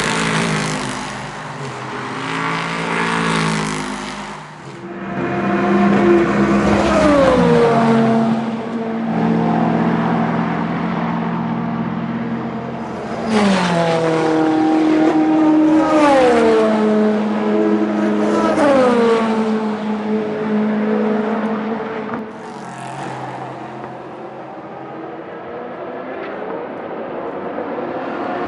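Race car engines at full throttle passing the track edge, with several sharp gear upshifts: the pitch drops suddenly, then climbs again, three times in quick succession around the middle.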